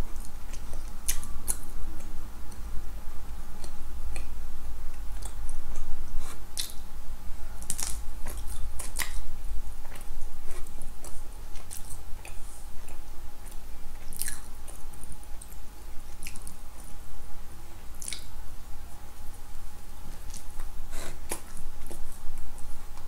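A person chewing a mouthful of soft glazed doughnut, with irregular wet mouth clicks and smacks, over a faint steady hum.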